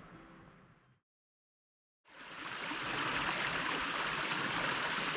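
Soft background music fading out, a second of dead silence at an edit, then the steady rushing of a mountain creek fading in and running on.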